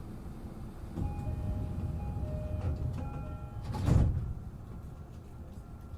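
Train door chime of an E233-7000 series commuter train, a few short tones, then the sliding doors shut with one loud thud just before four seconds in, over the low rumble of the stopped train.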